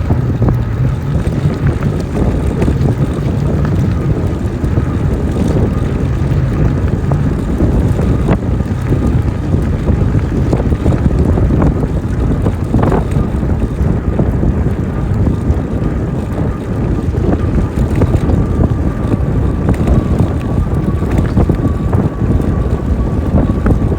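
Wind rumbling steadily on the microphone during an e-bike ride, with a faint steady high whine underneath.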